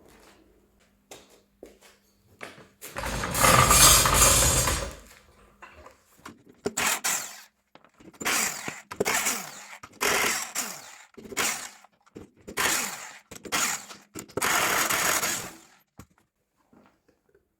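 Workshop tool work on a tractor: one loud, noisy mechanical burst lasting about two seconds, then a run of about eight short ratcheting strokes roughly a second apart.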